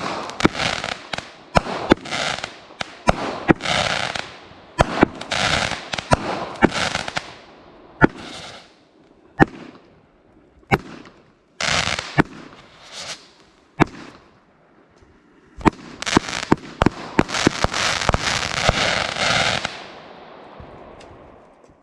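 A 42-shot 500-gram consumer firework cake (Brothers Fireworks Light Brigade) firing: sharp launch and break reports, each followed by a spray of crackling stars. After a couple of short lulls, a dense run of shots and crackle comes near the end and then dies away.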